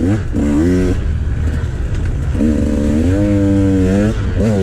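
Dirt bike engine revving while ridden, its pitch rising and falling with the throttle: a rough stretch early on, a long climb from about halfway, a quick drop near the end and another climb.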